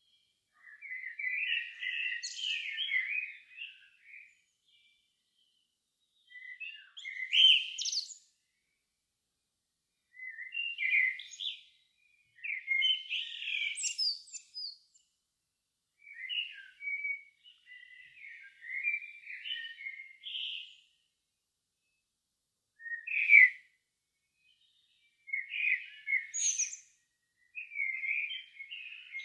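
Songbirds singing at dusk: a run of separate warbled phrases, each one to three seconds long, with short silent pauses between them. Some phrases end in higher, squeaky notes.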